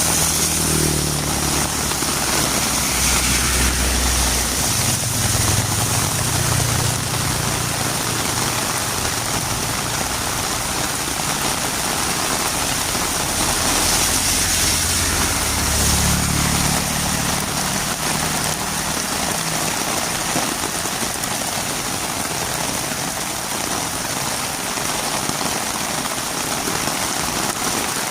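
Heavy rain falling steadily on a road, with the low engine hum of a vehicle going by during the first several seconds and again about halfway through.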